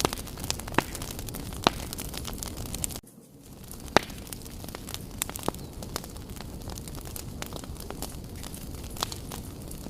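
Wood fire burning with a steady hiss and scattered sharp crackles and pops. About three seconds in the sound drops out abruptly and swells back over about a second.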